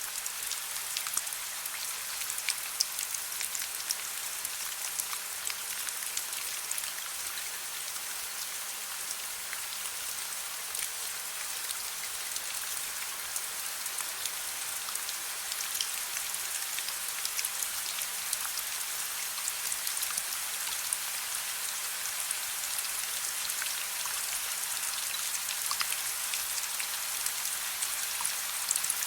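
Steady soft rain falling, a constant hiss scattered with many small distinct drop ticks.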